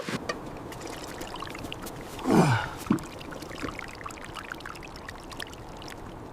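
Dogs being fed: a steady hiss with many small clicks, like dry food rattling. About two seconds in comes one short whine that falls steeply in pitch.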